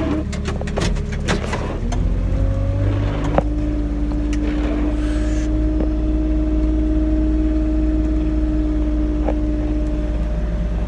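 Kubota RTV 1100's three-cylinder diesel engine running under load inside the cab while plowing snow. A cluster of clicks and knocks comes in the first two seconds, then a steady whine rises and holds until shortly before the end.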